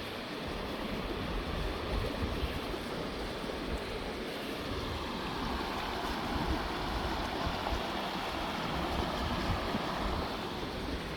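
Steady rush of wind and water, with low rumble from wind on the microphone; the rushing grows a little stronger about halfway through.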